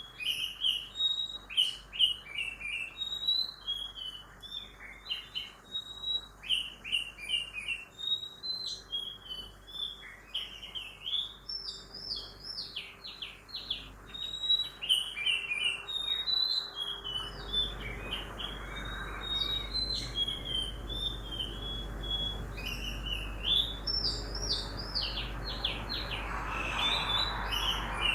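Several birds chirping and singing in quick, overlapping short notes and trills. About halfway through, a low rumble of road traffic rises underneath and grows louder toward the end.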